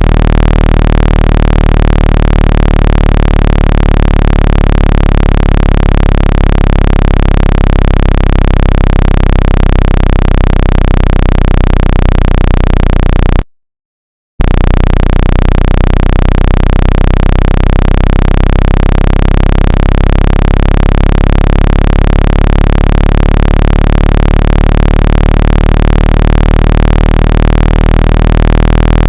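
Loud, low-pitched electronic tones for shaking water and dust out of a phone speaker, several pitches sounding together without a break except for one short silent gap a little before halfway.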